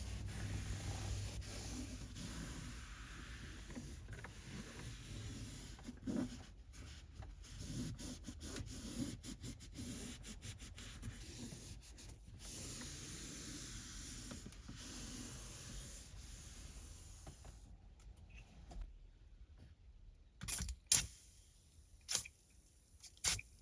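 Microfiber cloth rubbing and wiping over a car's interior surfaces in uneven strokes. Near the end come a few sharp clicks or taps.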